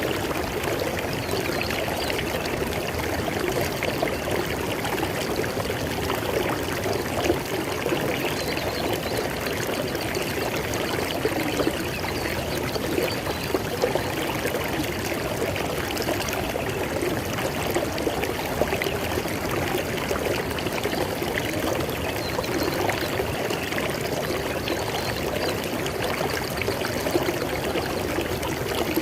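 River water flowing steadily over rocks, a constant rushing and babbling with no breaks.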